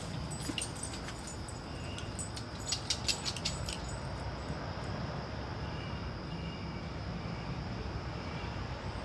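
A quick run of sharp clicks about three seconds in, over steady outdoor background noise with a constant high hum.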